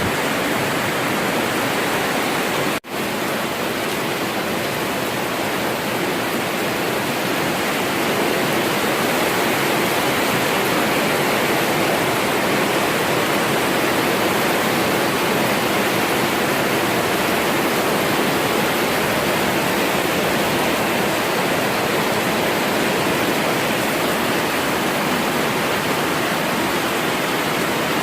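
Heavy rain pouring down steadily in a thunderstorm downpour, with little wind. It cuts out for an instant about three seconds in.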